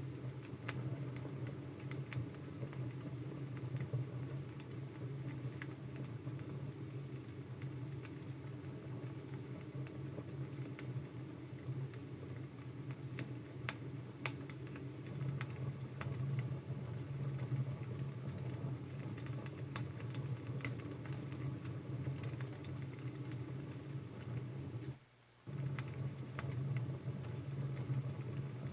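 Wood fire burning: a steady low rumble with irregular sharp crackles and pops. About 25 seconds in it cuts out for a fraction of a second, then carries on.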